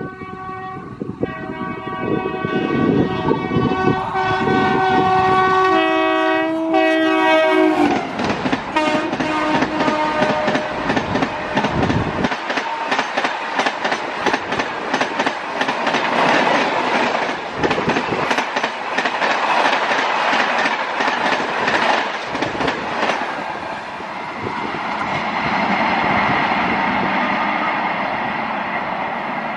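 Express train passing at speed: the locomotive sounds a long multi-tone horn that drops in pitch as it goes by. The coaches then rush past with rapid, dense wheel clatter over the rail joints, which gives way near the end to a steady rushing rumble as the last coaches recede.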